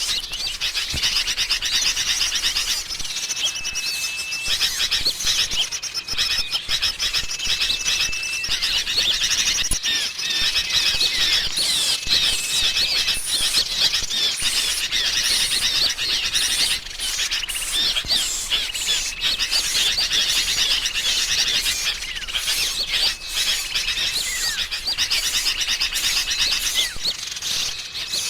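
Dense chorus of small songbirds chattering and twittering without pause, a bird-lure recording of a noisy flock of sooty-headed bulbuls mixed with other small birds. Flat, level whistled notes about a second long recur every couple of seconds through the chatter.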